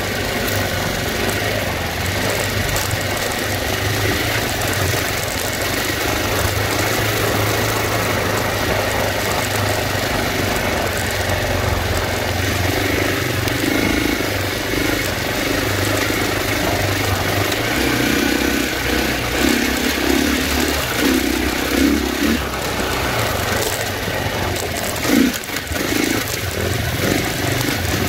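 Dirt bike engine running under way, heard from the rider's position. Steady for most of the stretch, then the throttle comes on and off in short bursts in the last third.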